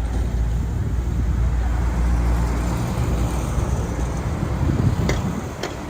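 Heavy diesel machinery engine running with a deep, steady rumble. About five seconds in, the rumble drops away and a few sharp clacks follow.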